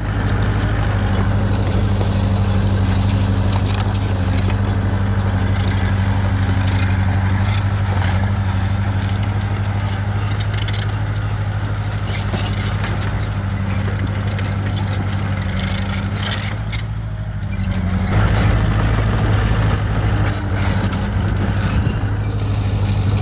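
Bulldozer's diesel engine running steadily under load, with a lot of metallic clinking and rattling over it. The engine sound dips briefly about three quarters of the way through, then comes back louder.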